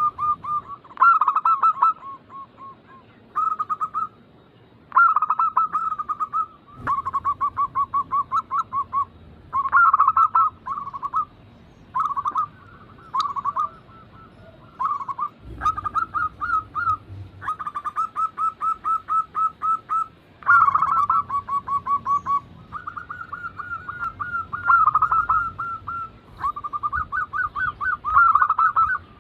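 Zebra doves (perkutut) cooing: phrase after phrase of quick, rolling coo notes at a steady pitch, with short pauses between phrases.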